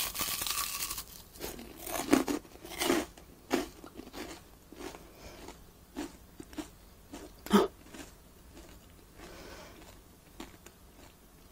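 A bite into a piece of deep-fried menbosha (shrimp toast made with rice bread), then crunchy chewing. There is a loud crunch at the bite, several more in the next few seconds, then only occasional crunches, the last sharp one about seven and a half seconds in.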